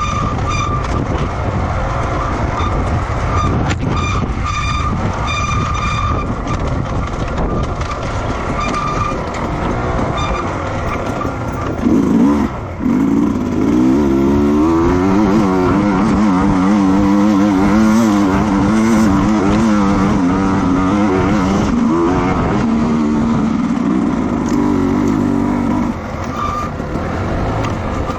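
Racing motorcycle engines running on a track. From about twelve seconds in, one engine is much louder, its pitch wavering up and down for some fourteen seconds before it drops away.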